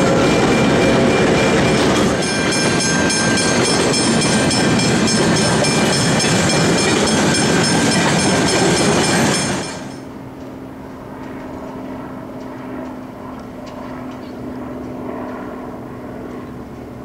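A train hauled by diesel locomotives passes close by at speed, loud with engine and wheel noise, and then its empty flat wagons rumble past. After about ten seconds the sound cuts to a quieter, more distant diesel locomotive with a steady low engine hum as it approaches slowly.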